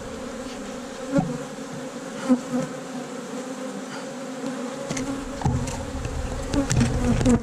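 Honey bees buzzing in a steady hum around an open hive, with a few short knocks and scrapes as a hive tool cleans bridge and burr comb off a frame.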